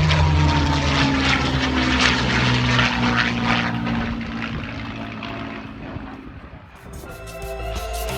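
Propeller aircraft passing by at an airshow, its engine note falling in pitch and fading as it moves away. Music comes in near the end.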